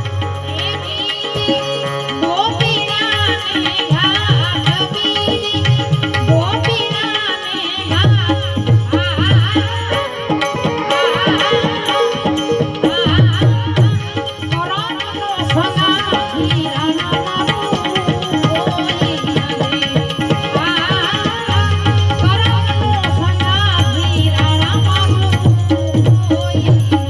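Santvani bhajan music: tabla and hand percussion under a wavering, ornamented melody line, with a deep bass note coming and going.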